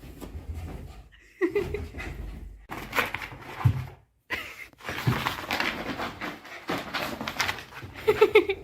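A dog panting and moving about, with scuffling and clattering noises and a few brief pitched sounds.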